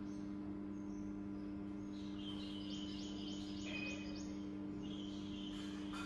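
Birds chirping in the background, with a run of quick high chirps about two and a half seconds in, over a steady low electrical-sounding hum.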